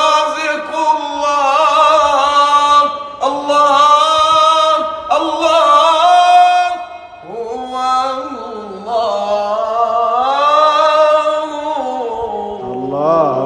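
Solo unaccompanied male voice chanting an Islamic ibtihal in long, melismatic held notes, with wavering ornaments on each note and short breaths between phrases about every two seconds.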